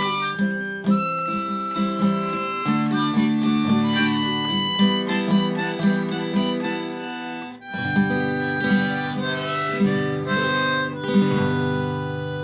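Instrumental music: harmonica playing held melody notes over a rhythmic guitar accompaniment.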